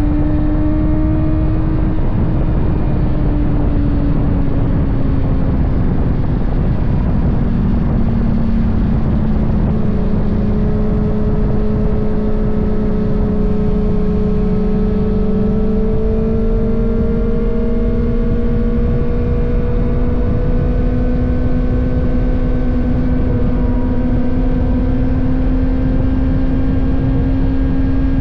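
Kawasaki ZX-6R's inline-four engine running steadily while riding, with wind rumble on the tank-mounted microphone. The engine note sags over the first several seconds, then climbs slowly and evenly through the rest.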